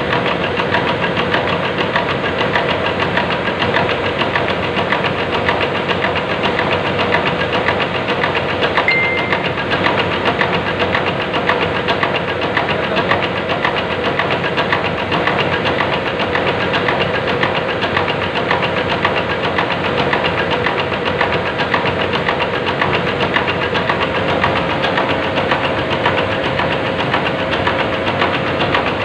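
Diesel fuel-injection pump test bench running steadily, driving a CAV rotary fuel pump, with a rapid even ticking throughout.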